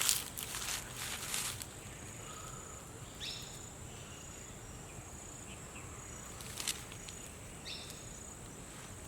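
Outdoor ambience with a steady, high-pitched insect trill. Rustling in the first second and a half, another brief rustle about two-thirds of the way in, and two short falling chirps.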